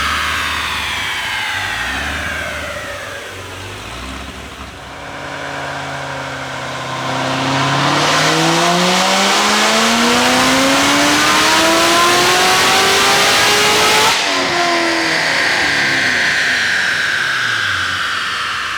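Supercharged 6.2 L V8 of a stage 4 C7 Corvette Z06 on a wide-open-throttle pull: the engine winds down, then revs up steadily for about eight seconds, is cut sharply off the throttle about fourteen seconds in, and coasts down. The pattern is that of a dyno run during tuning.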